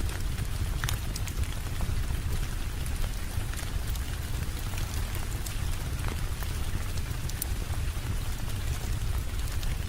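Steady rain with a low rumble underneath, and scattered sharp crackles of a wood fire in a fireplace.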